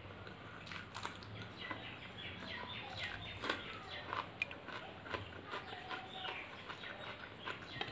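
Eating sounds while chewing a mouthful of fried rice and curry eaten by hand: irregular wet mouth smacks and small clicks.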